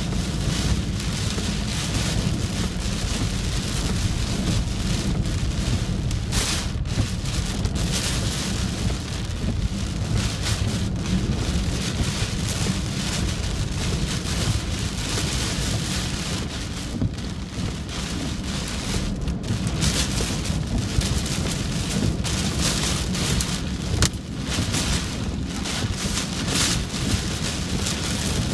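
Typhoon wind and heavy rain: a steady, unbroken noise with a constant low rumble underneath.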